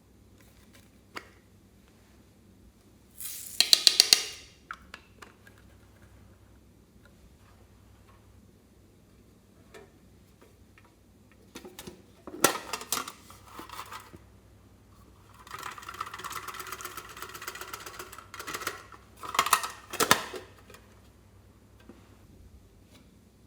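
Slime being squeezed and worked by hand, in several bursts of rapid crackling pops with short quiet pauses between.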